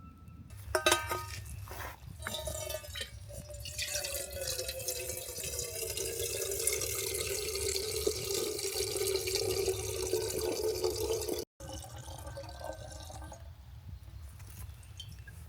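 Water being poured into a container: a few knocks at the start, then several seconds of steady splashing with a tone that slowly falls, cutting off suddenly near the end.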